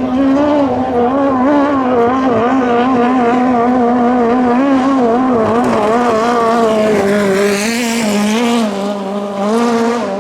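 5K-class racing boat engine running hard at high revs, a steady drone whose pitch wavers slightly and dips a little near the end. A hiss rises over it about three-quarters of the way through.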